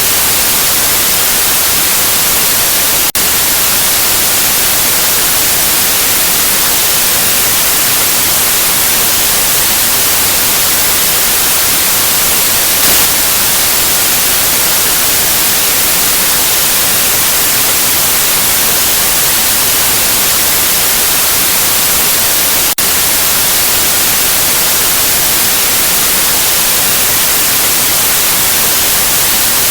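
Steady white noise: an even, full-range hiss with no pitch or rhythm. It dips for an instant twice, about three seconds in and again about two-thirds of the way through.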